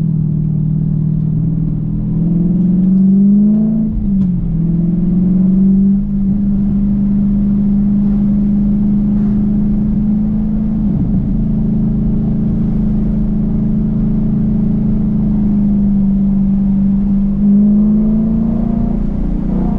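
Dodge Challenger's engine and exhaust under way. The pitch rises for a couple of seconds, drops sharply about four seconds in, holds steady at a cruise for a long stretch, then rises again and drops near the end.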